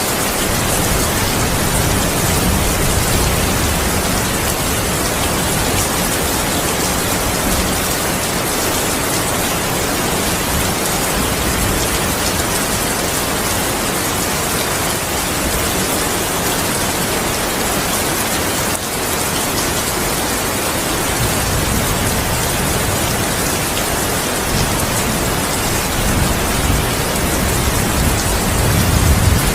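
Heavy rain falling steadily, a dense even hiss. Low thunder rumbles under it, at the start and again in the last third, swelling louder toward the end.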